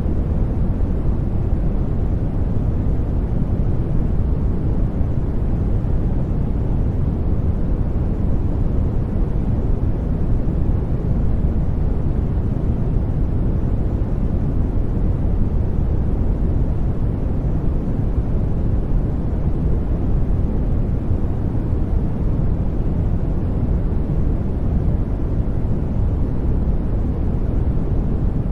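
Steady sleep noise, an even hiss that is strongest in the low end and soft in the treble, with no changes or events.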